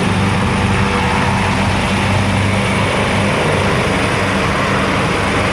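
Maryland State Police helicopter running steadily on the ground, a constant turbine and rotor noise with a low hum.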